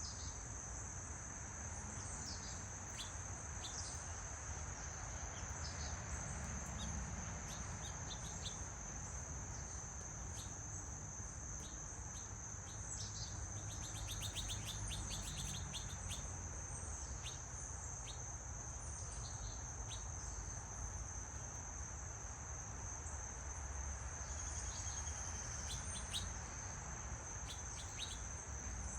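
A steady high-pitched drone of insects, with birds giving short chirps throughout and a fast trill about halfway through, over a low steady background rumble.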